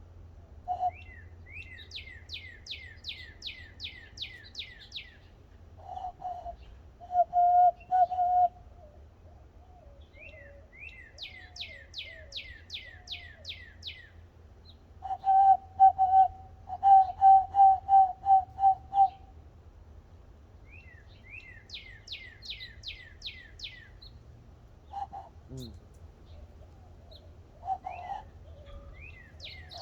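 Cupped-hand whistled bird call: low pure notes, first a short group and later a run of about a dozen quick pulses. Behind it a songbird repeats a fast series of about ten high down-slurred notes, three times.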